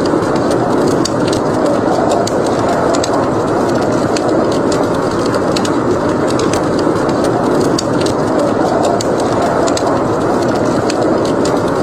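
Steady snowstorm wind noise with a wood fire crackling over it in frequent small, irregular pops.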